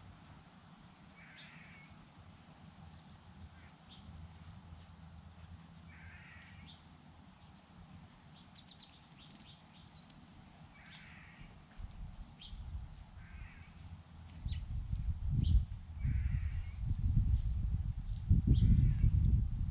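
A bird gives a repeated call about every few seconds, about six times, and a small bird chirps briefly and high in between. In the last five seconds a loud, uneven low rumble rises and becomes the loudest sound.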